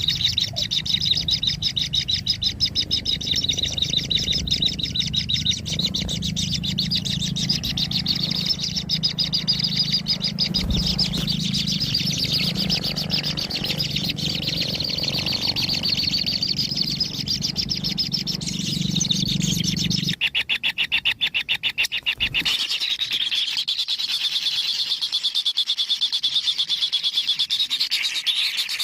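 Kingfisher chicks giving a continuous, rapid, high-pitched chirring begging call. A low hum underneath drops out abruptly about two-thirds of the way through, while the chirring carries on.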